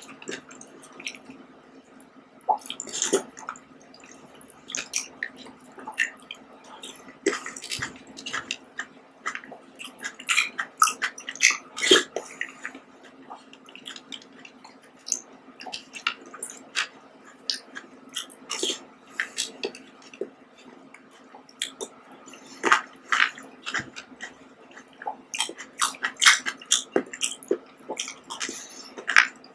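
Close, wet eating sounds of soft fruit jelly and grapes being chewed: irregular squishy squelches and sharp mouth smacks and clicks, over a low steady hum.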